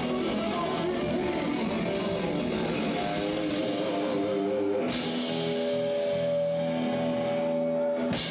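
Rock-style band music with guitar and drums, playing steady sustained chords, briefly cut off just before the end.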